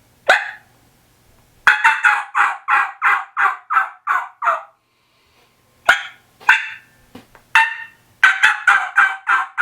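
Woodhaven Reverse Hammer mouth call (a turkey diaphragm call) imitating a hen. Single sharp cuts lead into a fast run of about ten yelps, and the sequence plays twice.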